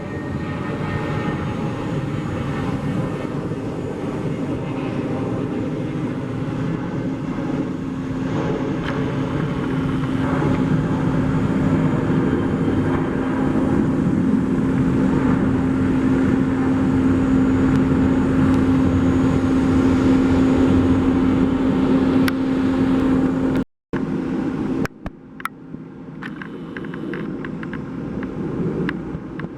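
Jet airliner engines running, a steady rumble with a low hum that slowly grows louder, cut off abruptly about 24 seconds in; after the break a quieter rumble with a few clicks.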